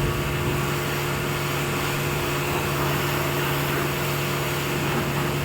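Car-wash pressure washer running steadily: a constant motor hum under a hiss of spray.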